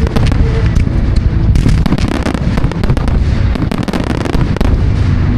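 Fireworks display going off: a dense, loud run of bangs and crackling pops, many shells bursting in quick succession.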